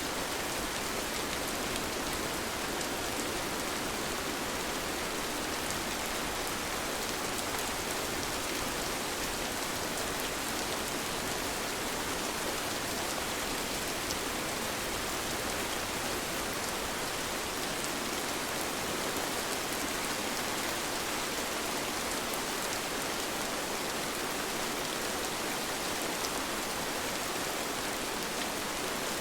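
Steady, even rain falling, with scattered drops pattering on surfaces.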